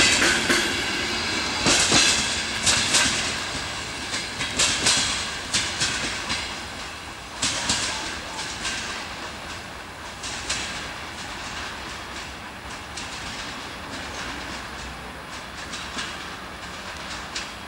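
Passenger train coaches rolling past and away, their wheels clacking over rail joints in quick groups. The clacks grow fainter over the first ten seconds or so as the train recedes, leaving a low, steady rumble.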